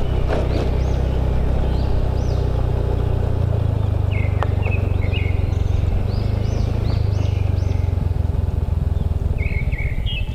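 Motorbike engine running steadily under way, its note shifting a little about a third of the way in. Birds chirp repeatedly over the engine.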